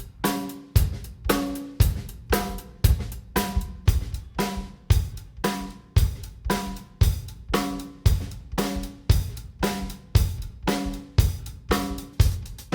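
Drum kit playing a steady groove to show off a Zildjian hi-hat: hi-hat strokes over kick drum and snare, about two strong hits a second, with the drums ringing after each hit.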